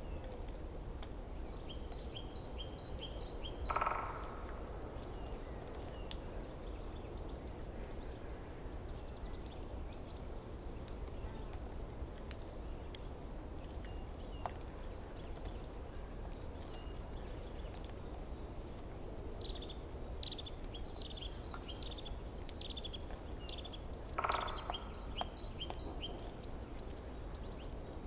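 Forest stream running steadily, with songbirds singing over it: a quick run of high notes and a harsh call near the start, then a long series of quick falling whistled notes in the second half, ending in another harsh call.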